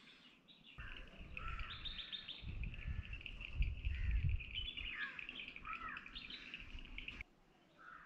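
Several birds chirping and singing in quick short notes, over a low rumble; the sound cuts off abruptly about seven seconds in.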